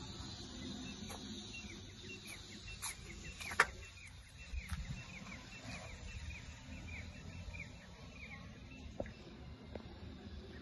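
A bird calling a long run of short, falling notes, two or three a second, over a low outdoor rumble. A single sharp click about three and a half seconds in is the loudest sound.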